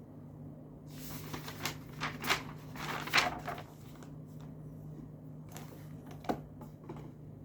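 Rustling and knocking of things being handled, a cluster of strokes in the first half with the loudest about three seconds in, then a few sharp clicks near the end, over a steady low hum.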